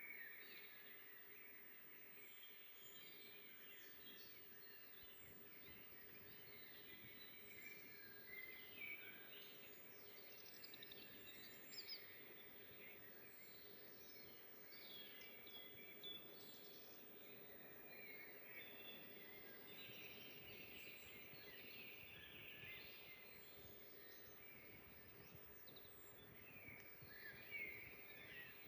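A faint chorus of several songbirds, many short chirps and song phrases overlapping throughout, over a soft steady hum.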